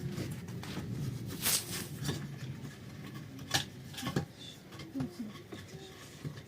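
Several short knocks and clatters, the loudest about one and a half and three and a half seconds in, over a low steady rumble.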